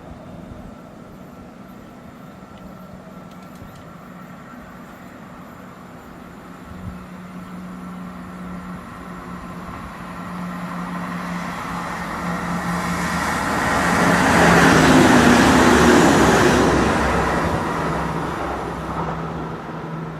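A train passing by, approaching gradually and loudest about fifteen seconds in, then fading away, with a steady low hum underneath.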